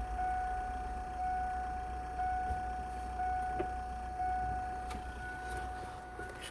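Kia Cerato's 1.6 MPI G4ED inline-four engine idling after a rev, a steady low rumble under a steady high whine that swells about once a second.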